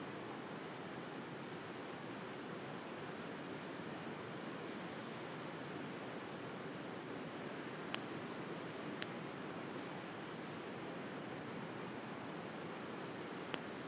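Steady wash of sea surf with a wood bonfire crackling, three sharp pops from the burning firewood, about eight, nine and thirteen seconds in.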